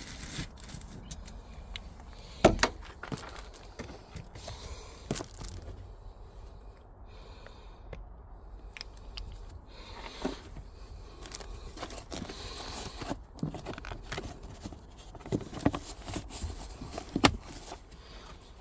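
Scattered clicks, knocks and scrapes of plastic car-interior parts being handled, as when a cabin air filter housing and glove box are refitted. The sharpest click comes about two and a half seconds in, with two more near the end.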